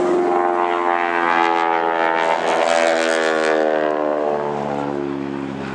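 North American T-6 Texan's nine-cylinder Pratt & Whitney R-1340 radial engine and propeller on a fly-by. It grows louder to a peak about two to three seconds in, then the pitch drops and it fades as the plane moves away.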